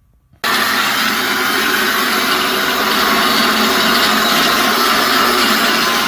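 Angle grinder cutting through a seized steel strut bolt and shaft, a loud steady grinding hiss that starts abruptly about half a second in and runs on unbroken.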